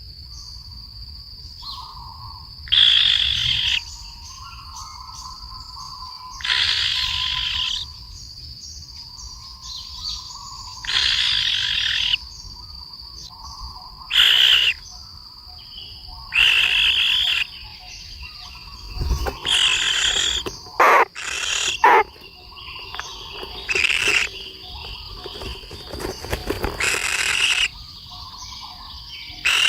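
Harsh, buzzy bird calls, each about a second long, repeating every three to four seconds, with two short, sharp calls close together just after the middle. A steady high insect drone runs underneath.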